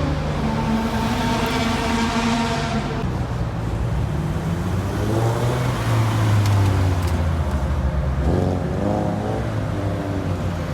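Car engines running as cars roll slowly past at low speed, with a car pulling away and its engine note rising about five seconds in.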